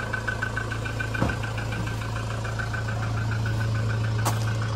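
A vehicle engine idling steadily, with a fast, even ticking over the hum and a single knock about a second in.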